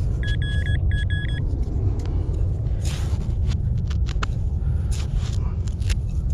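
Vanquish 440 metal detector beeping in two quick runs of target tones near the start, then scattered clicks and rattles of sand and metal being shaken in a sand scoop, over a steady low rumble.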